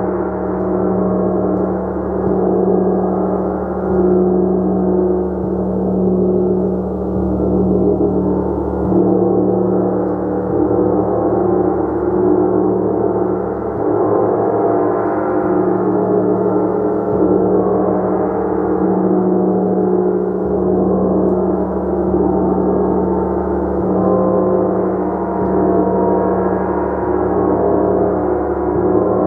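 A gong played continuously, a dense sustained wash of many overlapping tones with a strong low hum, swelling gently every few seconds without ever dying away.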